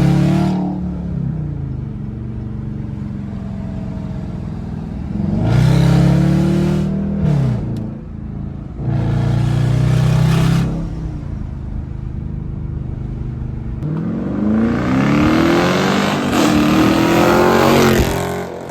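Dodge Charger with an aftermarket Hellcat exhaust accelerating in sport mode, heard from inside the cabin. A few short bursts of throttle make the exhaust note rise and fall, then a longer pull near the end rises in pitch, dips once as it shifts, and cuts off suddenly.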